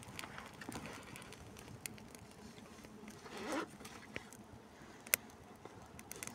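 Small wood campfire crackling: scattered faint pops and snaps, with one sharper pop about five seconds in.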